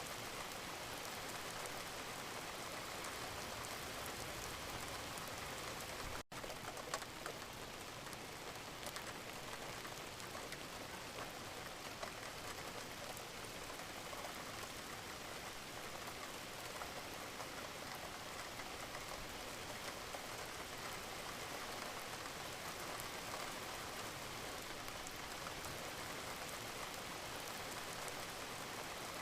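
Steady rain falling, an even hiss with a fine patter of individual drops, broken by a momentary dropout about six seconds in.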